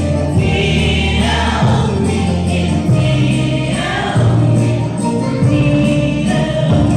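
Music of an Arabic Christian hymn: choir-like singing over held bass notes that change about once a second.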